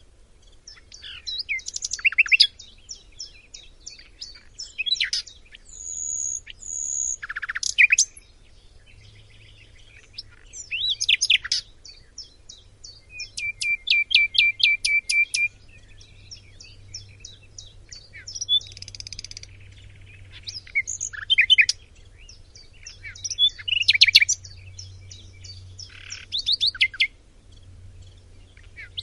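Chinese hwamei (họa mi) singing a loud, varied song of whistled phrases, trills and runs of rapid repeated notes, delivered in bursts with short pauses between them.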